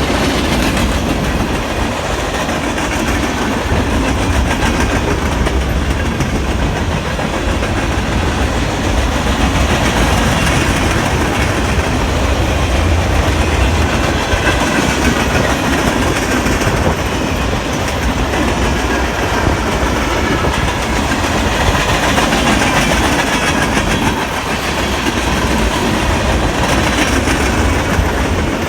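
BNSF freight train's cars rolling past, a steady loud rumble of wheels on rail with clickety-clack over the joints.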